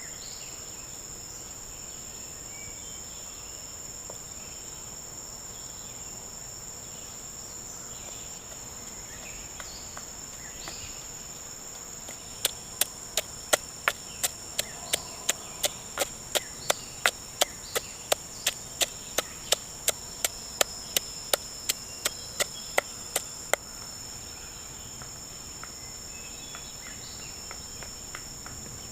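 Steady, high-pitched rainforest insect chorus. About midway, a run of about thirty sharp, evenly paced knocks, nearly three a second, lasts roughly eleven seconds.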